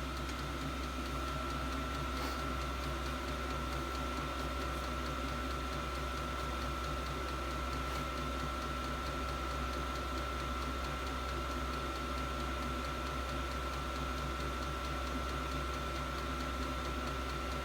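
An 8 kW 12 V all-in-one diesel air heater running steadily, its blower and burner giving an even hum with a steady high tone over it.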